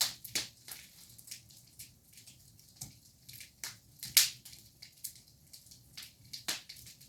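Wood fire in a fireplace crackling, with irregular sharp pops; the loudest pops come right at the start, about four seconds in, and about six and a half seconds in.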